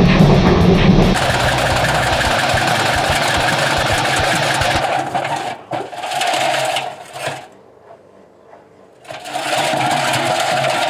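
Front-loading washing machine with a brick in its drum, running with a steady clattering rattle. A deeper rumble drops away about a second in; the sound then fades and breaks up, stops for about a second and a half, and starts again near the end, as the drum turns, pauses and turns again.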